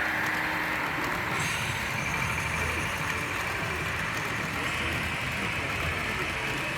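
Steady hum of a busy exhibition hall: crowd chatter mixed with HO-scale model trains running on the layout.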